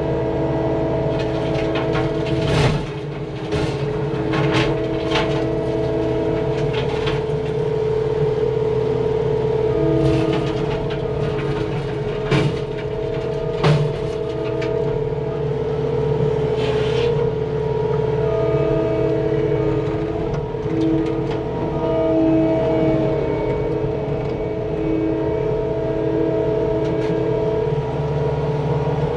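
CAT 259D compact track loader's diesel engine running steadily at work throttle, driving an MTL XC7T hydraulic brush cutter. Several sharp knocks and cracks come in the first half as the cutter chews into brush and wood, and a second hum comes and goes over the engine.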